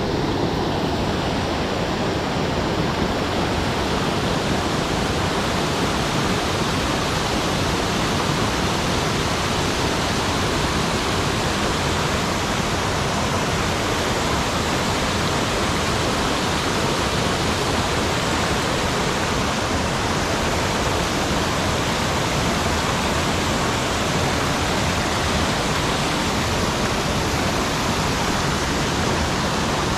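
Steady, loud rush of a mountain stream, water pouring over a weir.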